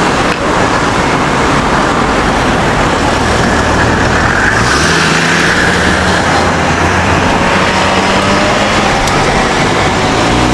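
City street traffic: vehicles driving past with low engine hum over a steady wash of road noise.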